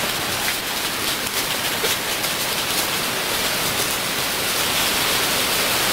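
Steady rain falling, an even hiss with scattered ticks of drops striking nearby in the first two seconds.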